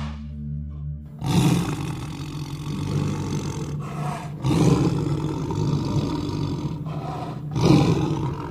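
A large animal's deep, rough calls in three long surges: about a second in, around the middle, and near the end.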